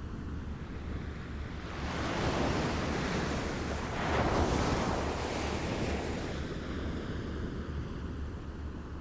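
Small waves lapping at the shore, the wash swelling about two seconds in, loudest around four to five seconds, then easing back.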